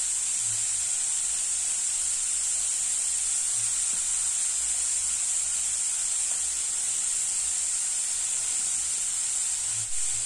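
Grated raw papaya sizzling in a little hot oil in a kadai: a steady, even hiss.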